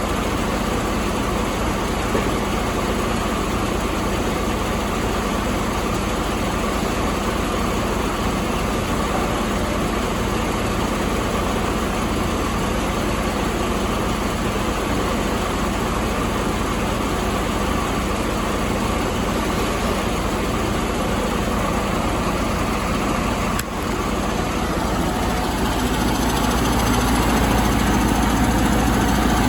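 Detroit DD15 inline-six diesel engine running at a steady idle. About three-quarters of the way through, the sound briefly dips, then it runs a little louder to the end.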